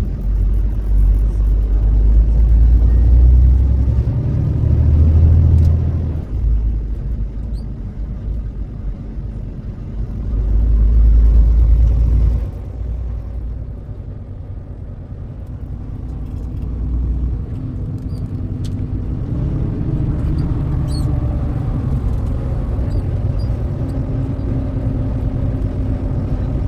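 Low rumble of a moving truck, engine and road noise, heavy and surging for the first twelve seconds or so, then settling into a steadier drone.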